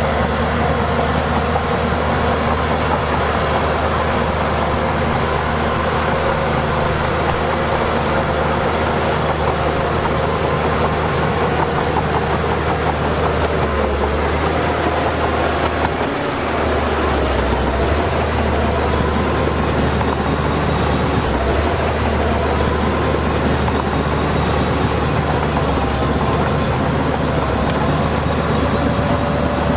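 Heavy diesel earthmoving machinery running steadily: a low engine drone with a fainter whine above it that wavers in pitch, and a brief dip about halfway.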